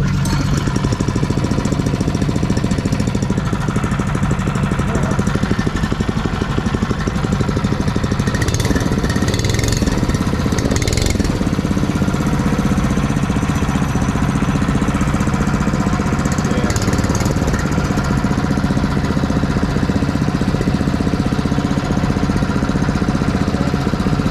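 Mini bike trike's small gas engine running steadily.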